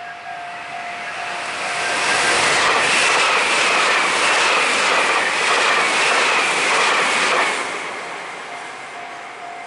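Electric train passing a level crossing at speed, its wheels clattering rhythmically over the rail joints. The pass builds up, holds loud for about five seconds, then fades away. The crossing's pulsing electronic warning bell rings before the train and again as it goes.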